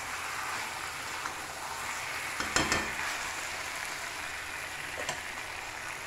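Chicken pieces sizzling as they fry in oil in a wide metal kadai, with a spatula scraping and knocking against the pan as they are stirred. The loudest scrape comes a little over two and a half seconds in.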